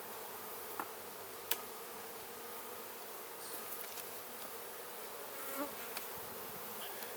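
Honeybees buzzing steadily around an opened hive during an inspection, with a couple of sharp clicks about a second in.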